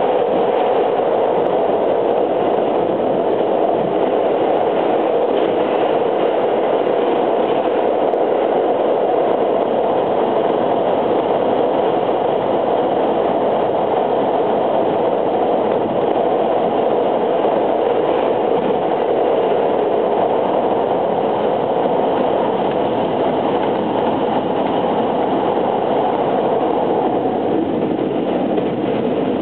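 Running noise inside a JR West 683 series 2000-subseries electric train car at speed in a tunnel: a steady, loud rumble of wheels on rail that eases slightly near the end.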